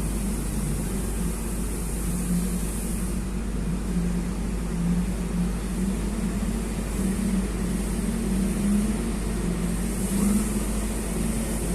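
Heavy off-road dump truck's diesel engine running under load, a steady drone whose pitch wavers up and down.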